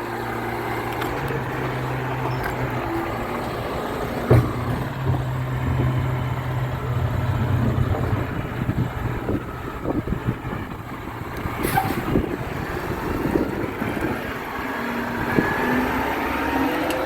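Garbage truck engine running steadily, with a loud knock about four seconds in, a brief sharp hiss about twelve seconds in, and a rising whine near the end.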